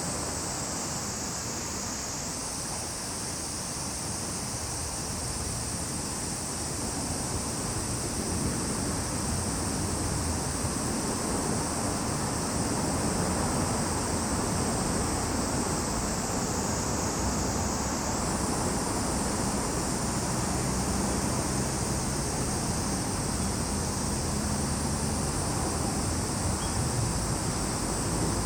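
Cicadas singing in a continuous high-pitched drone that sags slightly in pitch and jumps back up twice, about two seconds in and again about two-thirds of the way through. A low steady rumble sits underneath.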